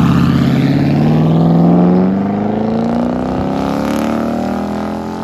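2020 Dodge Durango R/T's 5.7-litre HEMI V8 accelerating hard through a dual exhaust with the rear resonators deleted and 5-inch tips, the exhaust note climbing steadily in pitch and just starting to drop right at the end.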